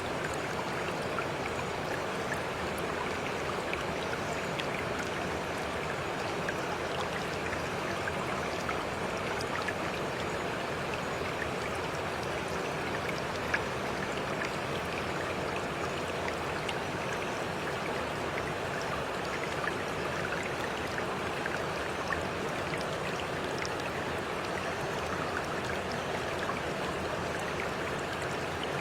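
Water flowing in a stream: a steady, even rush with scattered small ticks and splashes.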